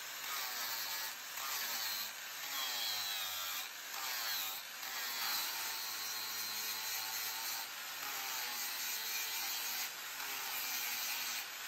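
Rhythmic rasping strokes of a hand tool working steel, about one stroke a second.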